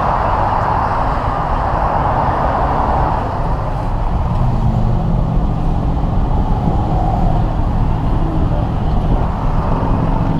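Freeway traffic noise: a steady rush of passing vehicles, loudest in the first few seconds and easing after about three seconds.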